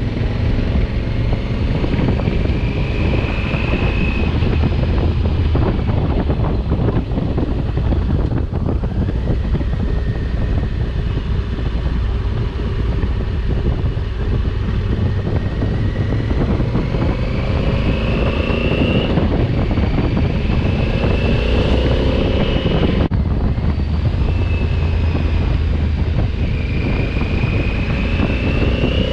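2020 Honda Africa Twin's parallel-twin engine under way, its note rising several times as it pulls through the gears, over heavy wind rush on the microphone.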